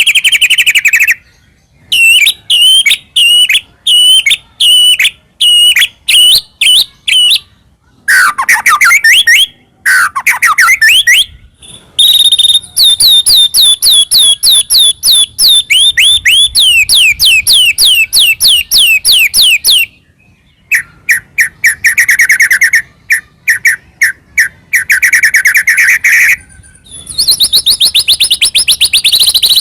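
White-rumped shama (murai batu) singing a loud, varied song: phrases of evenly repeated whistled notes, falling slurred notes, and long fast rattling series, with short pauses between phrases.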